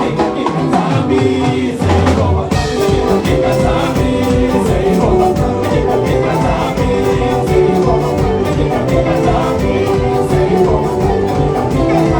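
Live band playing upbeat dance music with a steady beat, with some singing; the deep bass comes back in about two and a half seconds in.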